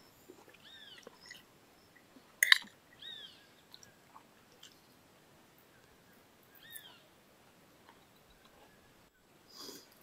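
A bird calling three times, each a short arched note a few seconds apart, over faint small clicks of people eating. A single sharp click about two and a half seconds in is the loudest sound.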